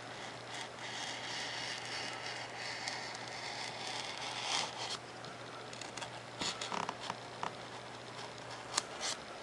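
Hobby knife blade drawing through a sheet of 3mm Depron foam, a continuous scratchy rasp for about five seconds, then scattered light ticks and taps as the cut goes on in shorter strokes.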